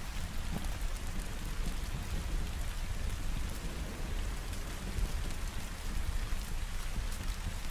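Steady rain falling, with a deep low rumble underneath and scattered light ticks.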